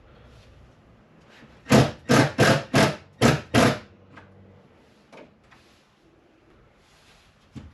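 Six hard hammer blows in quick succession, about three a second, followed by a few faint knocks and taps.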